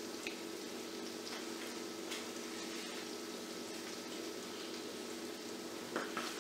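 Steady low hum and hiss of kitchen background noise, with a few soft clicks of a person chewing a hamburger, the last one near the end.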